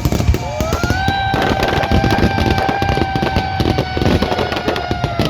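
Fireworks going off in quick succession, a dense crackling barrage of bangs. Over it, a long high tone rises just after the start, then holds almost steady until near the end.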